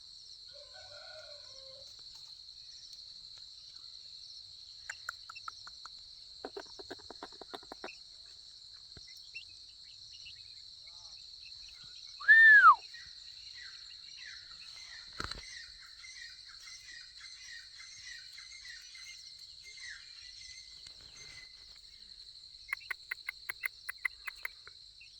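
Steady high-pitched insect drone, with scattered bird calls: one loud rising-and-falling note about halfway through, two runs of rapid clicking notes, and faint chirps.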